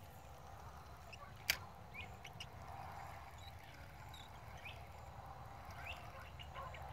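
Faint outdoor ambience: small birds chirping in short rising calls over a steady low rumble, with one sharp click about a second and a half in.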